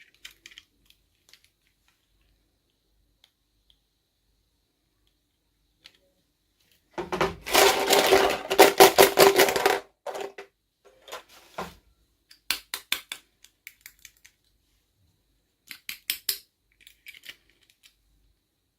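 Small plastic toy pieces and packaging being handled, with scattered light clicks and taps. About seven seconds in comes a loud stretch of about three seconds of packaging rustling and tearing, and then a few more short clusters of clicks.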